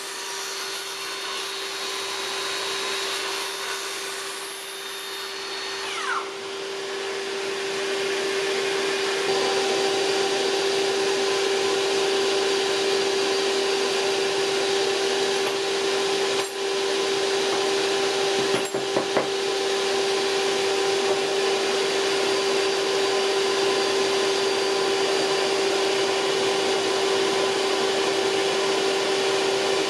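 A power tool's electric motor running steadily at an even pitch, with a brief falling whine about six seconds in and a couple of short clicks later on.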